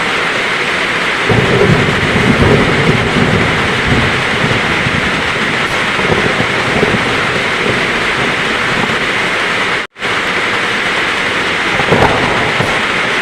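Heavy rain falling steadily, with a low rumble of thunder that swells about a second in and dies away by about four seconds, and a shorter rumble near the end. The sound drops out for an instant just before ten seconds in.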